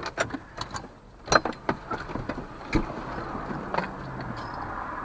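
A string of sharp clicks and knocks, like handling noises and fittings inside a car, followed from about halfway by a steady rushing hiss.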